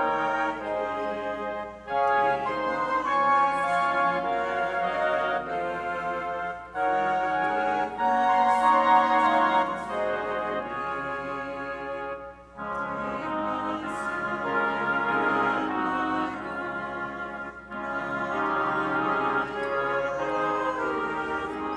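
Organ playing a hymn in sustained chords, phrase by phrase, with a short break between lines about every five seconds.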